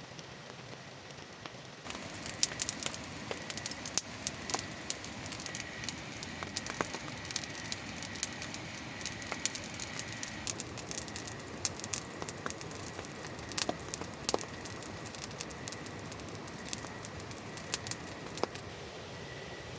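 Campfire crackling with frequent sharp pops over a steady hiss of rain, starting about two seconds in. A faint, steady high tone runs underneath.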